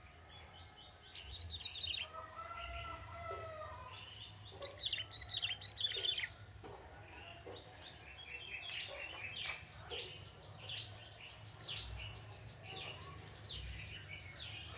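Young male ciblek tebu, a prinia, singing: repeated bursts of quick, high chirping trills.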